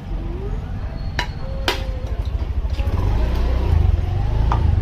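Two sharp knocks a half-second apart, then a few lighter clicks, over a steady low rumble like a nearby engine or traffic that grows louder in the second half.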